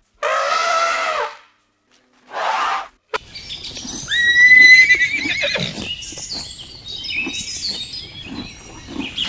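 Two short pitched animal calls, then a horse whinnying about four seconds in, a high quavering call that is the loudest sound here, followed by a scatter of high chirps.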